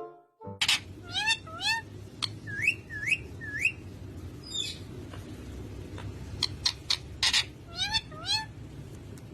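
Parrot making short rising whistled calls, each sweeping sharply upward in pitch, in runs of two to four, with scattered sharp clicks between them.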